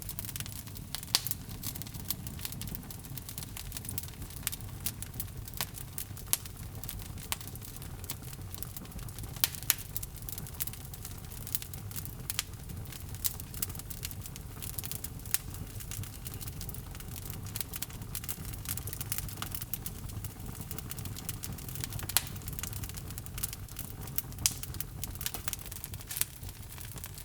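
Wood logs burning in a fireplace: a steady low rumble of flames with irregular sharp crackles and pops, a few of them louder than the rest.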